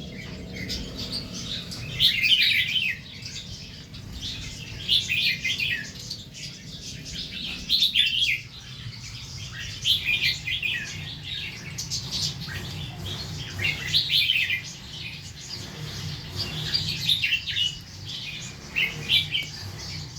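Red-whiskered bulbul singing, short warbled phrases repeated every one to three seconds, over a low steady hum.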